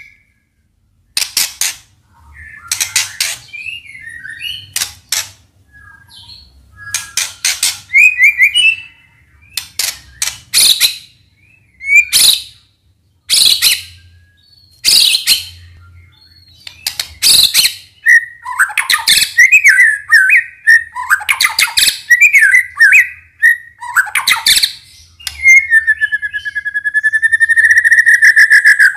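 White-rumped shama (murai batu) singing in full song: sharp clicking chatters alternating with whistled warbling phrases, with short pauses between them, and a long held whistle near the end.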